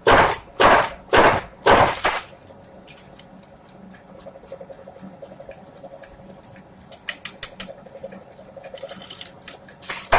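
Repeated heavy blows, about two a second, which stop about two seconds in. Then comes a quieter stretch of light clattering and ticks, and the heavy blows start again right at the end.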